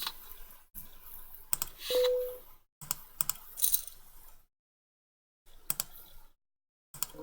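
Online poker client sound effects: clusters of short clicks and chip clinks, with a brief beep about two seconds in, broken by stretches of silence.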